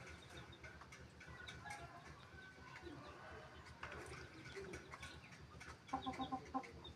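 A bird calling faintly with scattered chirps and short notes, then a quick run of repeated notes about six seconds in.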